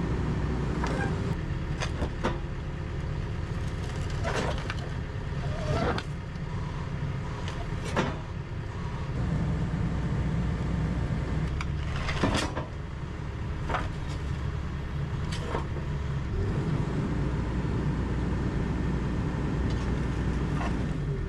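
Komatsu 160 excavator's diesel engine running steadily, its note shifting twice as the hydraulics take load, with several sharp metal clanks from the steel track being worked back onto the sprocket.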